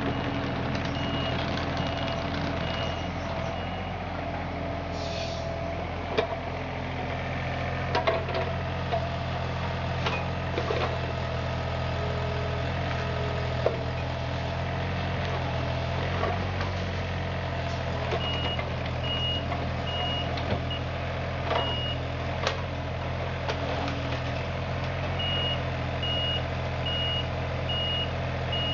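Compact excavator, a John Deere 35ZTS, running steadily, its travel alarm beeping in stretches at the start and again from about two-thirds in, with a few short knocks in between.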